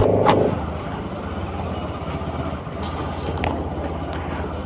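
Bajaj Pulsar RS200's single-cylinder engine running steadily at low speed in slow traffic, with a brief horn right at the start. A few crackles about three seconds in from a plastic carrier bag being handled on the tank.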